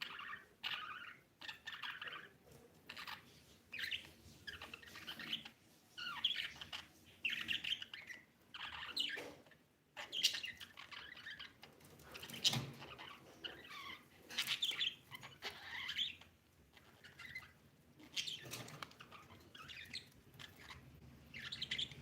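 Budgies chirping and warbling: a quick, irregular run of short chirps and chattering calls.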